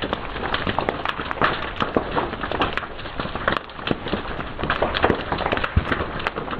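Fire crackling, with many irregular sharp snaps over a steady hiss.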